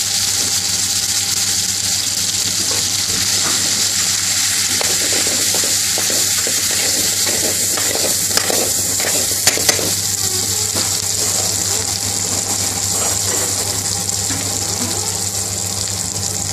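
Pre-cooked lentils sizzling in hot oil with fried garlic in a metal pan, stirred with a metal spoon that scrapes and clinks against the pan, with a couple of sharper clinks about halfway through. A low steady hum runs underneath.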